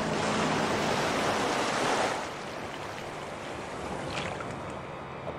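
Heavy splashing and churning seawater from a great white shark thrashing at the surface, loud for about the first two seconds, then dropping to a softer wash of water.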